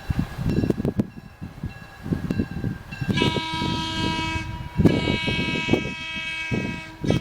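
A 50-ton locomotive sounds its multi-tone horn in two long blasts, the first about three seconds in and the second just after it. An uneven low rumble runs underneath, and the horn is faintly audible earlier on.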